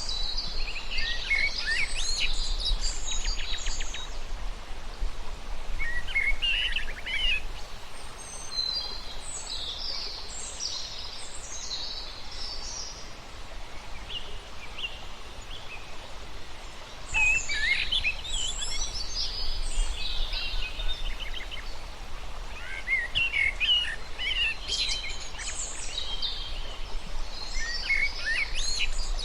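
Several wild birds chirping and trilling in overlapping bouts with short pauses between them, over a steady low outdoor background noise.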